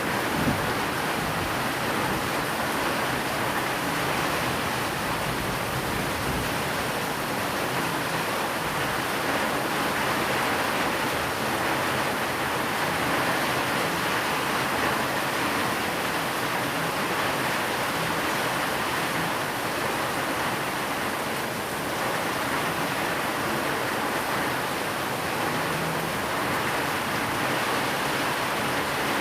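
Steady rain falling, blended with white noise: an even, unbroken hiss.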